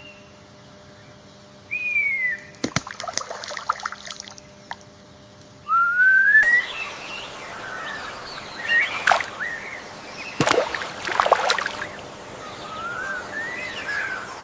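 Birds calling in clear whistles: a falling whistle about two seconds in, a louder rising whistle a few seconds later, then a jumble of shorter calls with sharp clicks, and a wavering whistle near the end.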